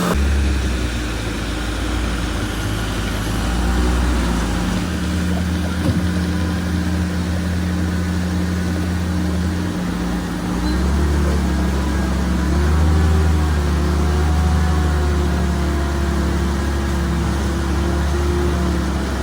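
Diesel engine of heavy construction machinery running steadily under load, its low note shifting about five seconds in and again about ten seconds in, with a single sharp knock about six seconds in.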